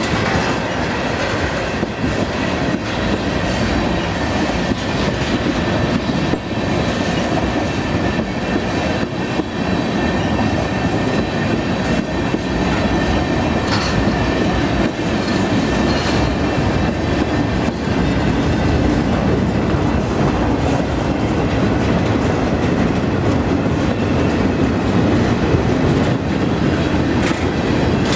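Freight train of tank cars and boxcars rolling past close by: a steady roll of steel wheels on rail with a clickety-clack over the rail joints.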